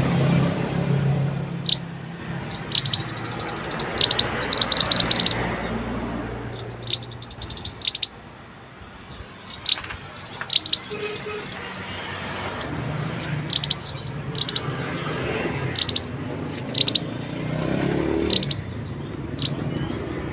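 A mantenan songbird calling: sharp, high-pitched chirps and quick rolled trills, in short bursts every second or so, with longer trills about four and seven seconds in.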